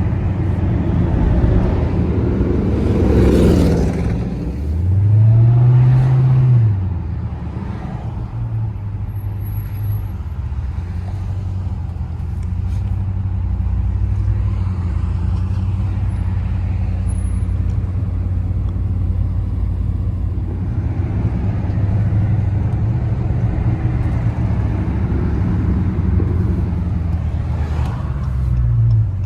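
Car engine running while driving, a steady low drone that revs up and back down about five seconds in and briefly again near the end.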